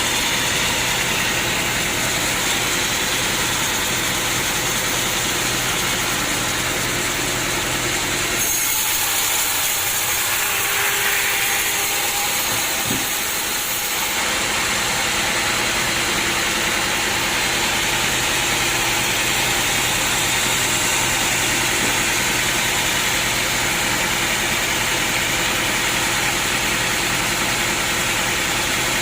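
Sawmill engine running steadily. For a few seconds near the middle, the low hum drops away and a hiss takes over.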